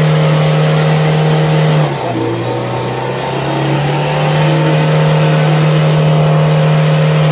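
A vehicle engine revving hard and held at high revs on slippery rain-soaked mud. The revs dip about two seconds in, then climb back and hold high, as the vehicle struggles for grip.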